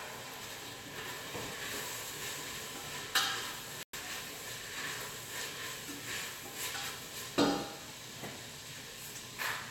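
Food sizzling in a frying pan, a steady hiss, with a utensil clattering against the pan about three seconds in and again about seven seconds in.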